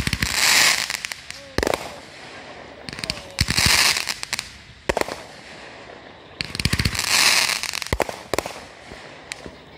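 Fireworks going off in volleys. Three times, a quick string of launch pops is followed by about a second of crackling, with single bangs in between.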